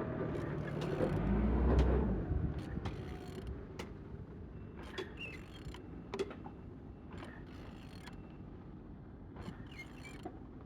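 A Mercedes-Benz OM646 four-cylinder diesel engine being turned over by hand with a wrench: scattered clicks and creaks from the tool and the rotating engine. There is a low rumble in the first two seconds. The engine turns freely and is not seized.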